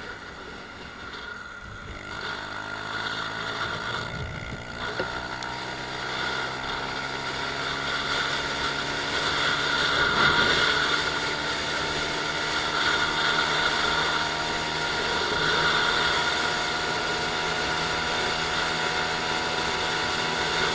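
Honda Super Cub 110i's single-cylinder four-stroke engine under way, picking up speed for the first several seconds, its note rising, then holding a steady cruising pitch, with wind and road noise.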